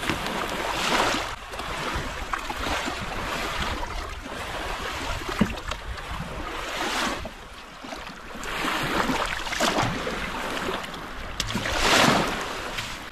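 Lake water lapping and splashing against a kayak hull in surges every couple of seconds, with wind on the microphone.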